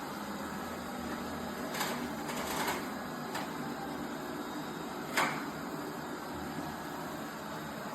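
ILIFE A12 Pro robot vacuum running with a steady whirring hum. A few short knocks and clatters come about two, three and five seconds in, the last the loudest.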